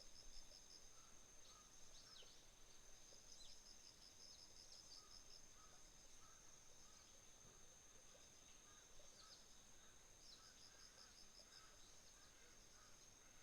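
Faint autumn insect chorus: one insect's steady, high-pitched trill runs throughout, joined by repeated pulsed trills from others. Short descending bird chirps come in the first few seconds and again about nine seconds in.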